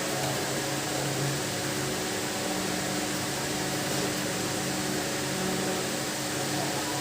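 Steady whirring hiss with a constant low hum.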